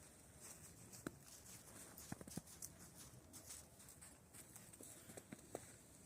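Near silence with faint, scattered crunches and ticks from light footsteps in snow.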